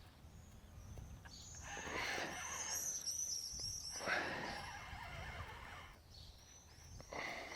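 Birds singing: bursts of rapid, high chirping notes, a long burst in the middle and another starting near the end.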